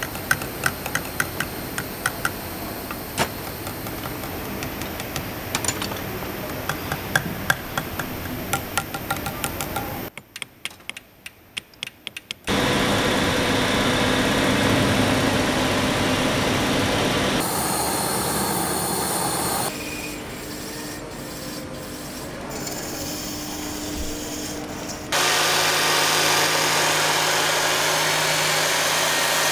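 Silversmith workshop sounds. For about ten seconds there is quick, irregular tapping on metal with short ringing tones. It is followed by several stretches of steady machine noise from grinding, polishing or filing, each changing abruptly to the next.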